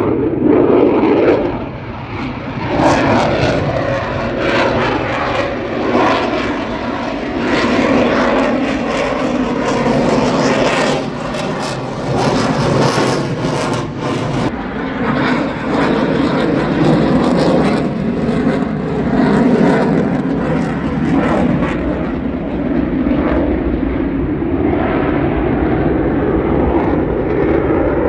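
Airplane engine noise from an airshow flyover: a loud, continuous rush that swells and eases in level.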